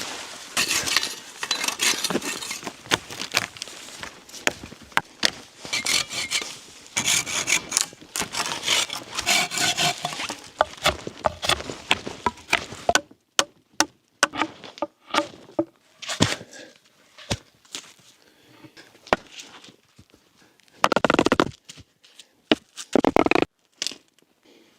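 Hand saw cutting through a small live tree's trunk, with fast rasping strokes of the blade in the wood. After about thirteen seconds the sawing stops, giving way to scattered knocks and two louder rustling crashes near the end.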